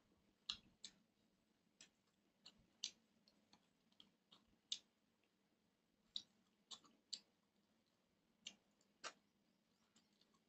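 Close-up eating sounds of rice and duck curry eaten by hand: irregular sharp, wet clicks and smacks of chewing and lips, unevenly spaced.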